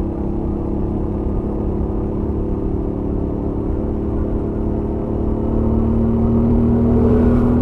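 Royal Enfield Interceptor 650's parallel-twin engine, through its stock exhaust, running steadily at highway cruise. It rises a little in pitch and loudness in the last couple of seconds as the bike picks up speed.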